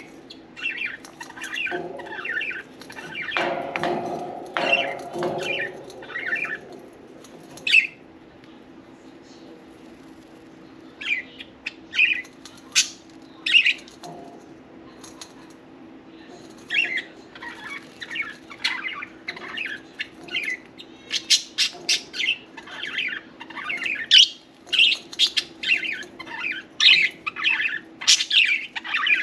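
Budgerigars chirping and squawking in short, rapid bursts. The calls thin out for a stretch about a third of the way in, then grow busy again near the end, over a steady low hum.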